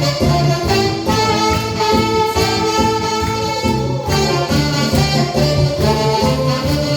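Saxophones playing a trot melody together over a steady bass beat.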